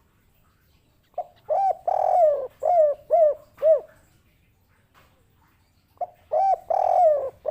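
Spotted dove (derkuku) singing its 'kuk 3' coo: a short note, a longer rolling coo, then three short separate 'kuk' notes. The same phrase starts again about six seconds in.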